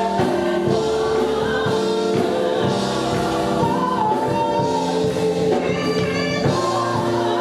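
Gospel choir singing with instrumental accompaniment, in long held notes.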